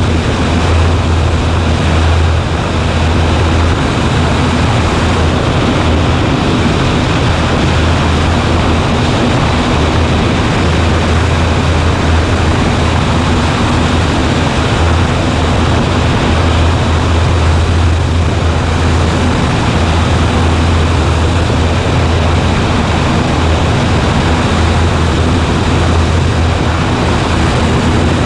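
Cessna 140A's single piston engine and propeller running steadily in flight: a constant loud drone with a strong low hum and rushing noise, with no change in power.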